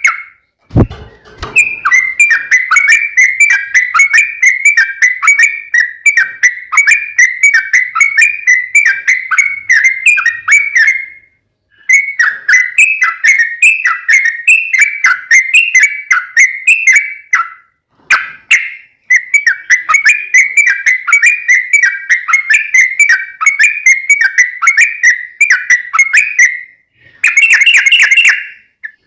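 Yellow-vented bulbul (trucukan) singing a long, fast run of repeated chattering notes, in several long stretches broken by short pauses. A brief low thump sounds near the start.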